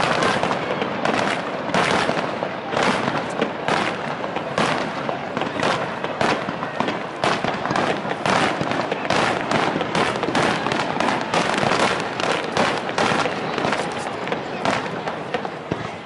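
Aerial fireworks shells bursting in quick succession, a dense run of bangs and crackles several a second, thinning a little near the end.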